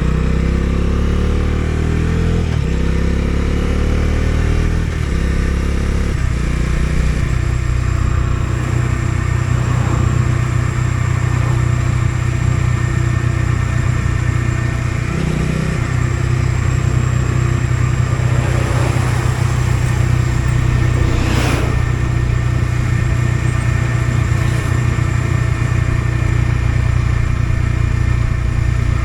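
Bajaj Dominar 250's single-cylinder engine pulling up through the gears, rising in pitch twice with a drop at each shift, then settling into a steady cruise. A short whoosh passes about two-thirds of the way through.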